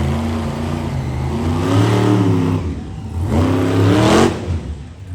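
Monster truck engine revving hard twice, about two seconds apart, with the pitch climbing each time, then backing off near the end.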